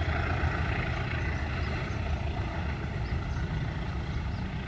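Steady low rumble of a freight train moving slowly into a station.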